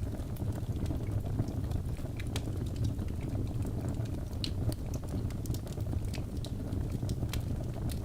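Birch logs burning in a fireplace, a steady low rumble of flames with frequent small, sharp crackles and pops scattered throughout.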